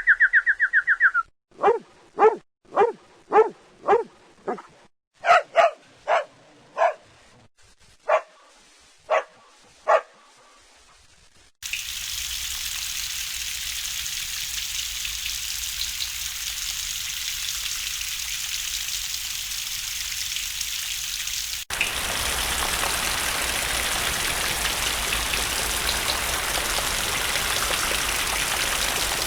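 A dog barks about a dozen times in an uneven series, after a brief bird trill at the very start. The barking then gives way to steady rain noise, which becomes louder and fuller about two-thirds of the way through.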